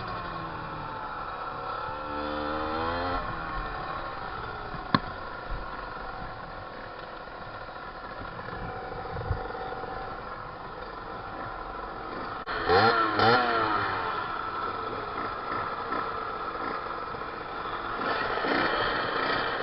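Fantic 50cc motorcycle engine running while ridden, its revs rising and falling. A loud burst of quick revving comes about two-thirds of the way in.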